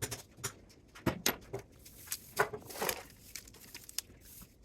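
Irregular clicks and clatter of metal parts and hand tools being handled while a spot welder is torn down for scrap.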